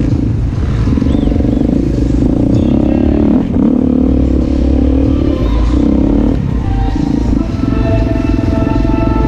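Motocross motorcycle engines running hard, the pitch rising and falling as the riders rev and shift through the gears, with a steadier engine note near the end.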